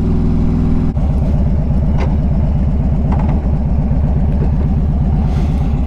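Harley-Davidson Twin Cam 103 V-twin through Vance & Hines True Duals exhaust, running steadily at low revs, then settling about a second in into a slow, loping idle beat as the bike is pulled off the road.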